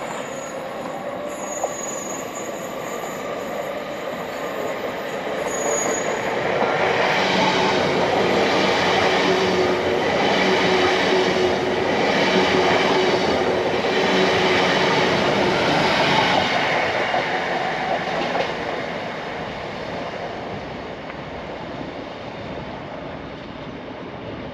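A train running through the station. Its sound swells about six seconds in, stays loud for around ten seconds with a regular repeating rumble and a steady tone, then fades away.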